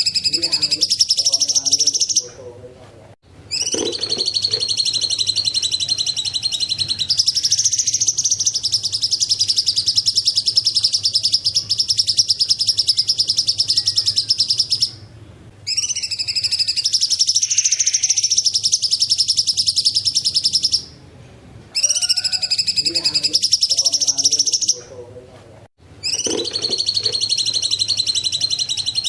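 Cucak cungkok singing long, fast, continuous runs of high chirping notes, broken by a few brief pauses.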